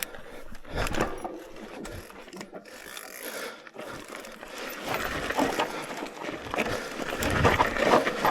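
Electric mountain bike ridden down a rough dirt trail: tyres rolling over ground and roots, with the chain and frame rattling in irregular knocks. It grows louder about five seconds in as the ground gets rougher or faster.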